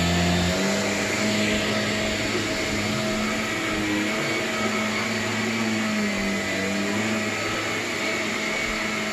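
Upright vacuum cleaner running while being pushed across the floor. Its steady motor hum shifts in pitch about half a second in and wavers slightly after that.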